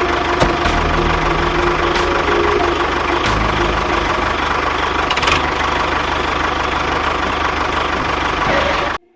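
Tractor engine idling steadily with a low knocking rumble, cutting off suddenly near the end.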